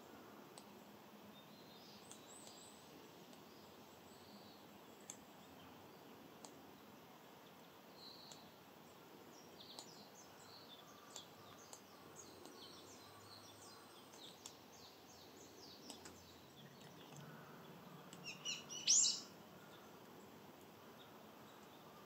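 Woodland birds calling faintly, with scattered short high chirps over a faint steady hiss. A brief, louder burst of high calls comes near the end.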